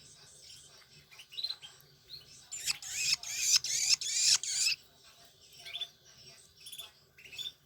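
Long-tailed shrike chicks begging for food with high squeaky calls; about two and a half seconds in they break into a loud, harsh burst of overlapping begging lasting about two seconds, then go back to short chirps.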